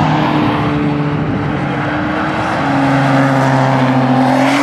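Nissan GT-R's twin-turbo V6 running hard on a race circuit, with another sports car behind it. The engine note is steady, drops in pitch about halfway through, then grows a little louder and climbs slightly near the end as the GT-R passes close.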